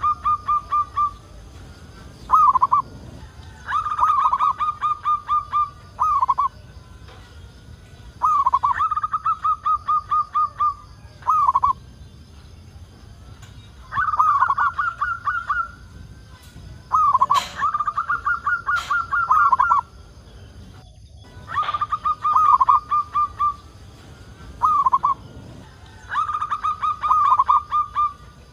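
Zebra dove (local Javanese perkutut) cooing: repeated phrases of rapid, pulsing coos, most followed by a separate short end note, coming about every four to five seconds.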